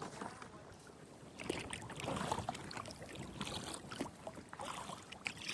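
Kayak paddle strokes: the paddle blades dipping and splashing water. The strokes grow louder about a second and a half in.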